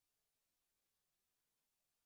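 Near silence: only faint steady hiss.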